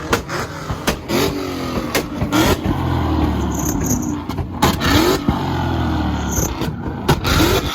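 A tuned Ford Mustang's engine revving on a two-step launch limiter, with a few quick rising revs and long steady holds. Sharp backfire bangs and pops come again and again throughout, the exhaust spitting flames.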